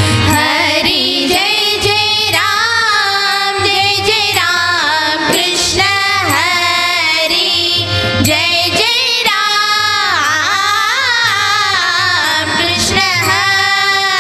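Women's bhajan group singing a Hindu devotional bhajan in long, ornamented melodic phrases, over steady held instrumental notes and percussion strikes.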